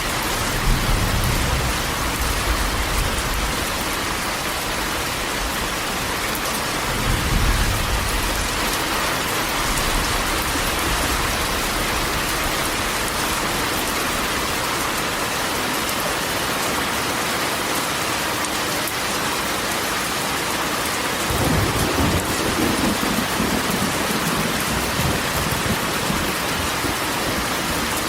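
Steady heavy rain pattering on a corrugated metal roof, with low rolls of thunder at the start, about seven seconds in, and again from about two-thirds of the way through.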